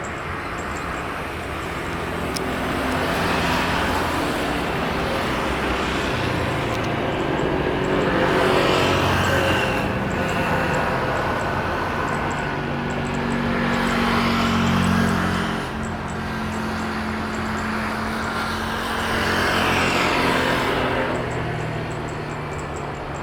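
Road vehicles passing close by one after another, each swelling and fading in turn over a constant rumble of traffic.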